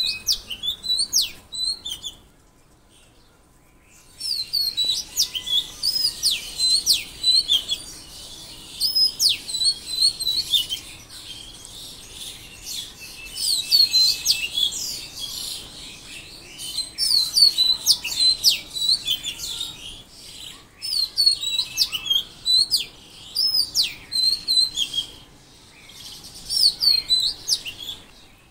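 Songbirds chirping in repeated bouts of quick, high, down-sweeping notes, with a short pause about two seconds in.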